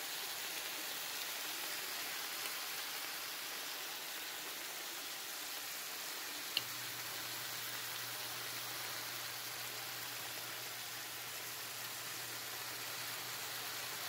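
Chicken pieces, onion and marinade sizzling steadily in a skillet, an even hiss. A sharp click about halfway through, after which a low hum joins in.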